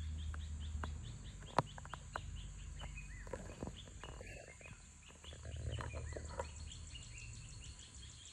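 Woodland ambience: a bird chirping in a quick, steady series of short calls, over a high insect buzz that turns into regular rapid pulses near the end. A sharp click about one and a half seconds in, and low rumbles near the start and after the middle.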